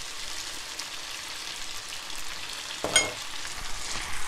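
Diced chicken and grated garlic sizzling steadily in hot oil in a frying pan, with small crackles and spits. A brief sharp squeak comes about three seconds in.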